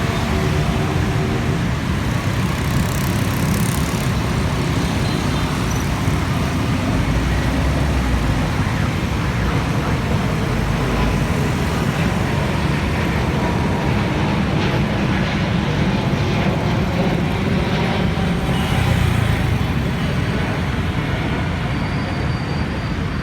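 Airbus A321neo's Pratt & Whitney PW1100G geared turbofan engines at takeoff thrust: a loud, steady jet engine noise, swelling slightly about three-quarters of the way through.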